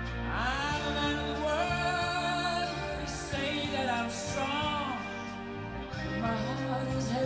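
A song with a sung vocal line and sustained instrumental accompaniment, played through Wharfedale Linton Heritage 85th Anniversary loudspeakers driven by a Primare i15 Prisma amplifier, heard from the listening position in the room.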